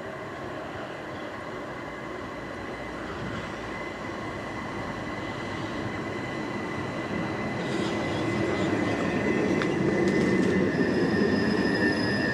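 Southern Class 377 electric multiple unit approaching on the rails, its running noise and a steady whine growing steadily louder. In the last few seconds there are a few clicks and higher squealing tones from the wheels.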